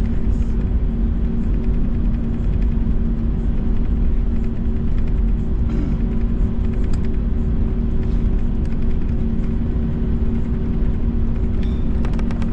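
Airbus A321 cabin on the ground before takeoff: a steady low rumble with a constant two-tone hum from the engines at idle, and a few light clicks and rattles.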